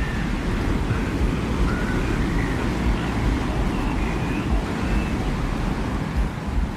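Desert wind ambience: a steady, deep rumbling wind noise, with faint short high whistles drifting over it every second or so.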